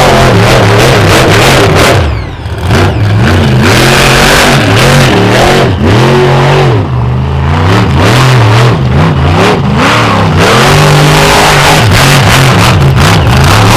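Monster truck engine revving hard, its pitch climbing and falling over and over as the throttle is worked, briefly let off about two seconds in and again around seven seconds.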